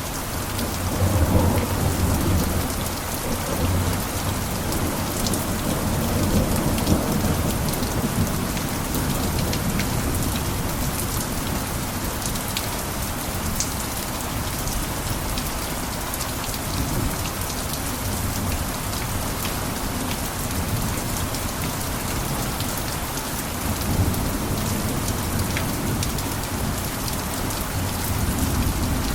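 Steady heavy rain falling on a roof, with a low rumble that swells in the first several seconds and again near the end.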